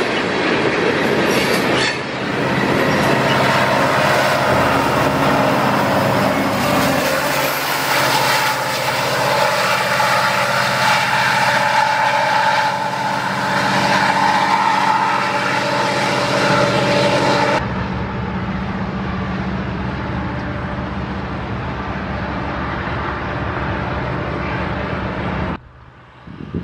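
Freight train passing close: diesel locomotive rumble and rolling rail cars, with steady squealing tones from the wheels in the middle. About two-thirds of the way through the sound cuts suddenly to a duller, quieter, steady train noise, and it drops away again shortly before the end.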